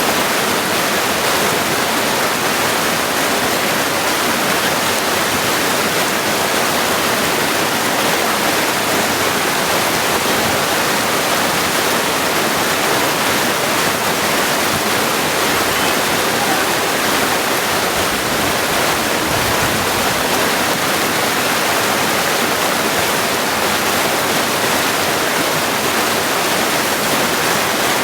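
Mountain stream running over stones: a steady, loud rush of water.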